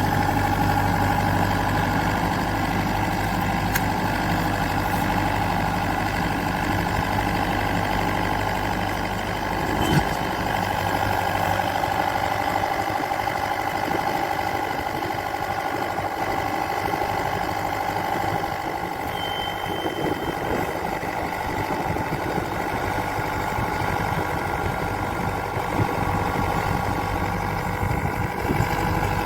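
Rice combine harvester's engine and machinery running steadily, with a few light knocks.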